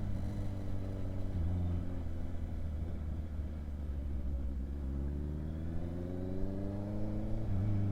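Honda CBR650's inline-four engine running through an aftermarket exhaust. The engine note falls away at first, holds steady, then climbs as the bike accelerates from about five seconds in, with a gear change near the end.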